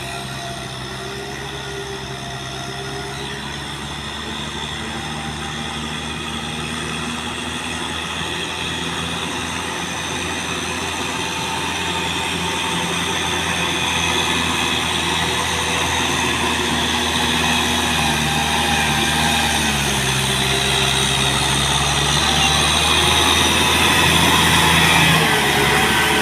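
Kubota tractor's diesel engine running steadily while it pulls a plow through a field, growing steadily louder as the tractor draws closer.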